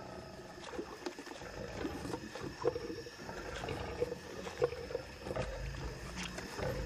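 Lions feeding on a buffalo carcass: irregular tearing, crunching and snapping of meat and bone, with a low growling rumble building near the end.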